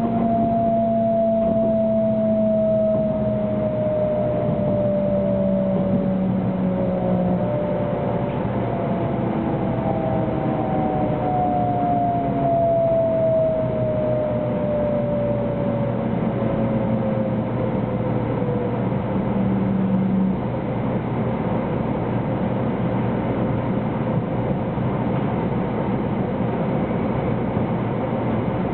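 Running noise inside a 300 series Shinkansen car slowing for a station stop: a traction-motor whine that slowly falls in pitch over the first two-thirds, over the steady rumble of wheels on rail.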